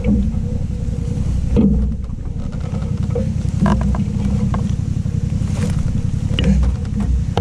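Triumph Tiger 800 XCX adventure motorcycle's three-cylinder engine running at low, steady revs while riding slowly on a rutted dirt track, with a few short knocks about one and a half, three and a half and six and a half seconds in.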